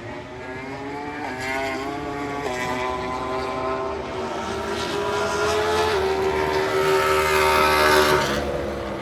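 A MotoGP race bike's four-cylinder engine at full song, growing louder as it approaches. It is loudest about eight seconds in, then fades as it passes. The pitch steps several times along the way as the rider changes gear.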